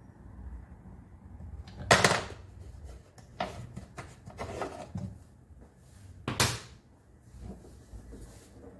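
Handling clatter: two louder clunks about four seconds apart, with lighter knocks and rattles between them.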